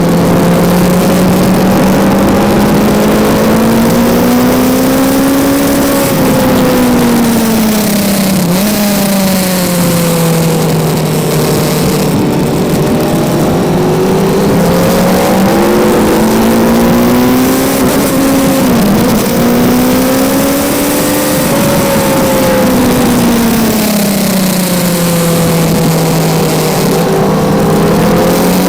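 Kawasaki Z900's inline-four engine running hard, its pitch climbing and falling over several seconds at a time as the bike accelerates and slows, with two sharp brief dips in pitch at gear changes.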